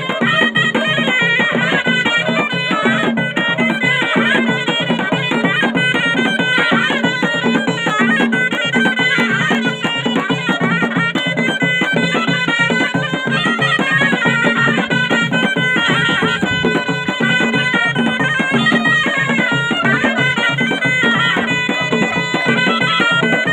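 Moroccan ghaita, a double-reed folk shawm, playing a loud, ornamented traditional melody continuously over a steady beat.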